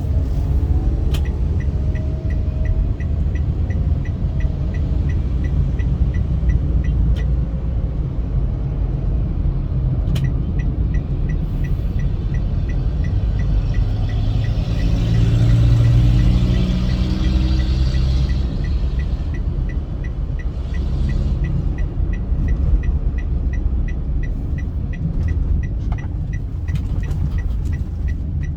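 Car driving on a motorway: steady low rumble of engine and tyre noise, with a faint fast regular ticking through much of it and a louder rushing swell about halfway through.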